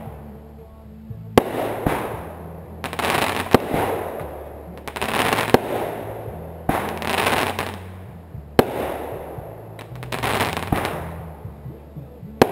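Aerial fireworks going off. Shells burst with a sharp bang every two to three seconds, and each burst is followed by about a second of hissing crackle.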